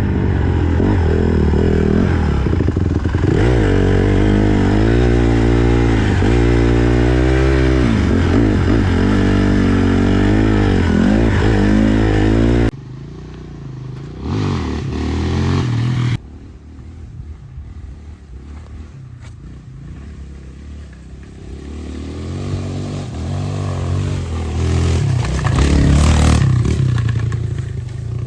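Small four-stroke dirt bike engine being ridden and revved, its pitch rising and falling through the gears, loud and close. About halfway through it drops off suddenly to a quieter engine sound, which builds again to a peak near the end and then falls away.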